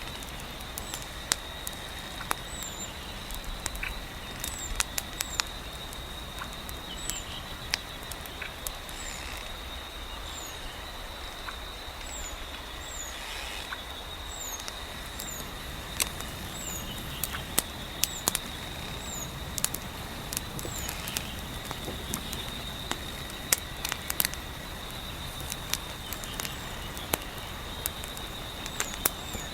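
Wood fire crackling, with sharp pops at irregular intervals, over a steady low wind and a steady high-pitched trill.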